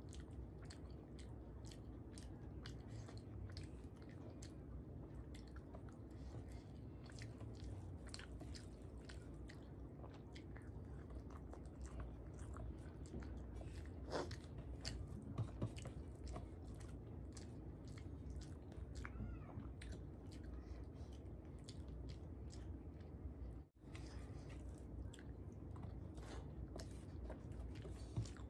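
Faint close-up eating sounds: a woman chewing a mouthful of rice and fish, with many small wet mouth clicks and smacks, as her fingers mix and gather rice on a steel plate.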